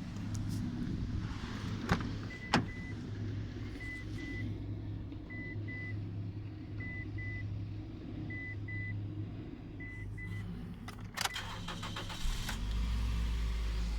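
Toyota Raum's 1NZ-FE four-cylinder engine idling steadily, while the car's warning chime beeps in pairs about every second and a half. There are a few sharp clicks, and a deep low rumble sets in near the end.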